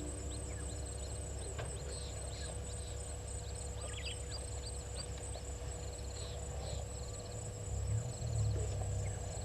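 Outdoor waterhole soundscape: a steady, pulsing high-pitched insect trill, with scattered short bird chirps and quick trills over it. A low rumble under it grows louder near the end.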